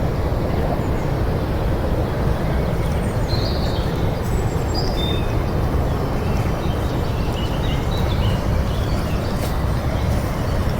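Steady low rumbling noise of wind buffeting the microphone, with a few faint, short bird chirps scattered through.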